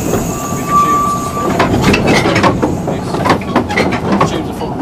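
Narrow-gauge railway train running on the track, with a rattle of irregular clicks and knocks from the wheels and rail joints. A brief high steady tone sounds within the first second and a half.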